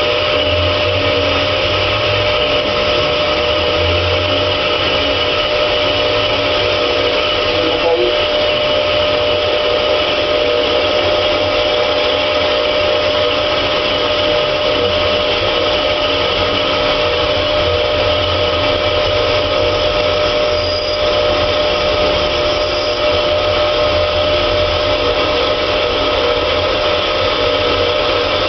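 Headman CK6130 CNC lathe running: a steady machine whine with several held tones over a mechanical hum.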